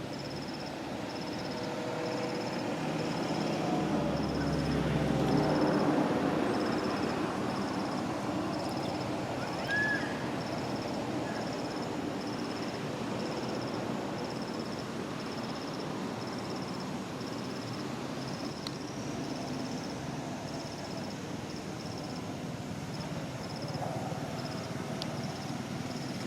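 Outdoor ambience with an insect chirping in a steady, evenly pulsed high trill. A low rumble swells and fades around four to six seconds in, and a single short chirp sounds about ten seconds in.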